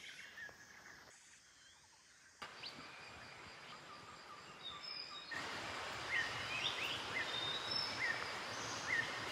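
Quiet forest ambience: birds give short, repeated chirping calls, a couple a second, over a steady hiss. The background changes abruptly a few times, as at cuts between recordings.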